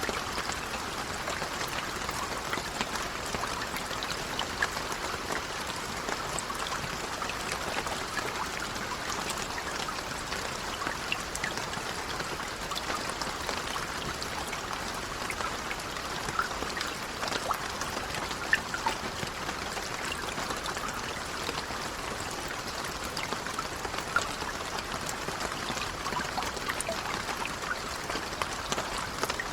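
Steady, gentle rain falling, an even patter with many small drop ticks throughout.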